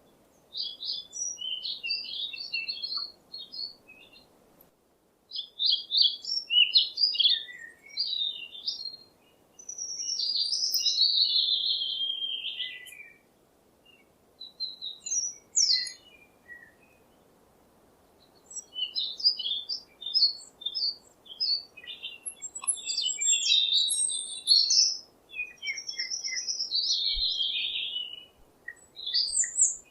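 A songbird singing in phrases of quick chirps and warbling notes, broken by short pauses, including one longer warble that slides down in pitch about ten seconds in.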